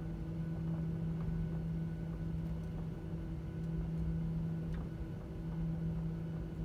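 Boeing 737-900ER cabin ambience on the ground: a steady low hum with a constant droning tone over a low rumble, with a few faint scattered clicks.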